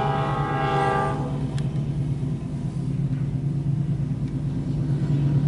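Diesel locomotive's multi-note air horn sounding a chord that cuts off about a second in, leaving a steady low rumble as the train creeps past.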